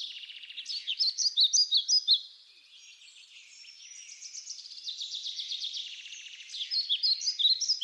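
Songbird singing: a fast, high trill followed by a run of sharp, loud chirping notes, the phrase repeated twice.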